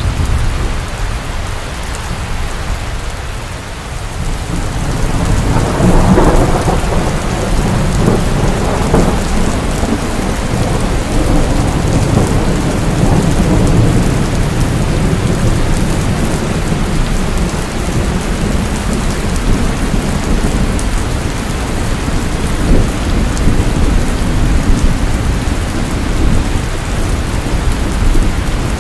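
Steady rain falling, with low rolling thunder that swells about five seconds in and rumbles on through the rest.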